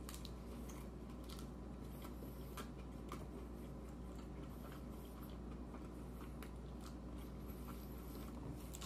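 Faint chewing of a bite of a fried fish sandwich with soggy, soft breading, with scattered soft mouth clicks, over a steady low hum.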